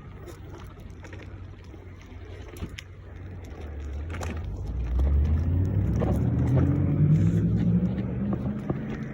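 A motor vehicle's engine passing close by, growing louder and rising in pitch as it speeds up, then fading away.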